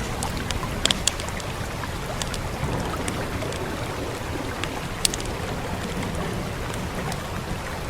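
Steady rain and low rumble with a wood fire crackling over it: scattered sharp pops, the loudest a cluster about a second in and one about five seconds in.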